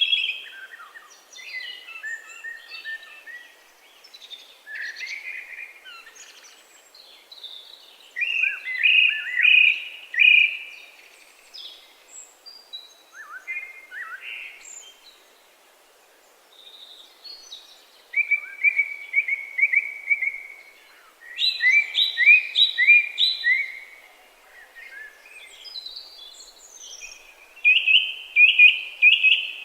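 Several songbirds singing outdoors, with overlapping chirping and warbling phrases. The songs come in louder runs a few seconds apart, with a lull around the middle.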